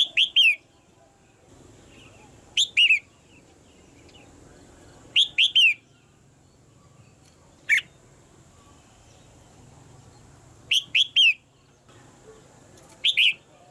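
Red-whiskered bulbul calling: short phrases of two or three quick, downward-sliding chirps, repeated about every two and a half seconds, six times.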